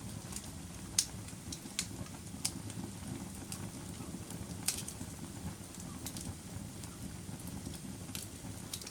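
Campfire burning: a low, steady rumble of flames with sharp wood crackles and pops at irregular intervals, the loudest about a second in and again near five seconds.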